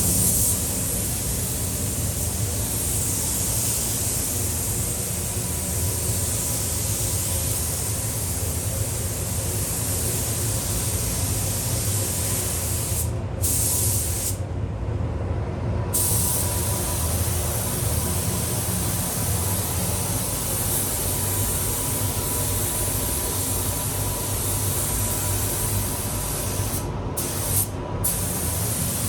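Compressed-air paint spray gun spraying white primer, a steady hiss that stops briefly when the trigger is released: once about halfway, for a second or two just after, and twice near the end. A steady low rumble runs underneath.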